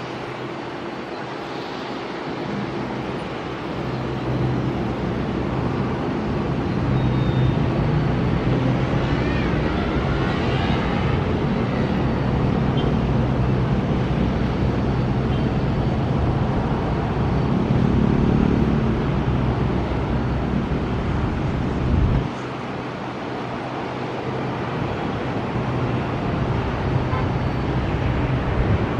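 Airbus A330-223's jet engines and airframe rumble during the landing. The noise swells a few seconds in and holds steady with a low hum, then drops off suddenly about three quarters of the way through.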